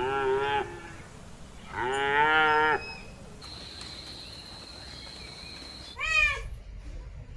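A farm animal calling twice, each call under a second long and wavering in pitch, then a cat meowing once near the end.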